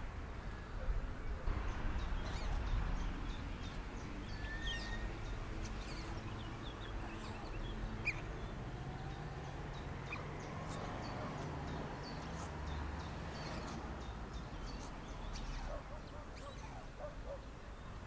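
Faint bird calls: many short, scattered high chirps and a few brief call notes over a steady low background rumble.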